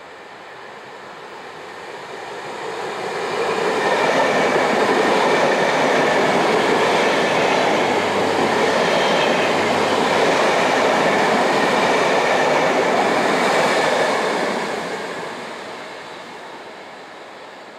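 VR Sm3 Pendolino electric passenger train passing at speed: a rush of wheels on rails that builds as it approaches, holds loud for about ten seconds as the cars go by, then fades as it moves away.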